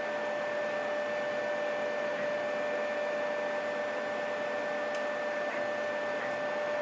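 3D printer running, a steady whir with a constant mid-pitched hum and a higher whine. A faint tick comes about five seconds in.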